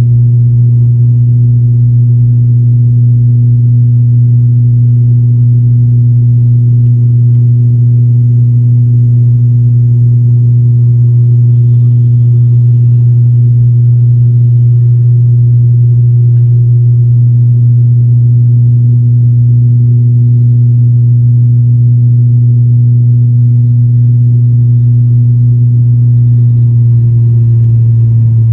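Propeller drone of an ATR 72 turboprop heard inside the cabin: a loud, steady low hum with a few overtones, holding one pitch and dropping slightly near the end.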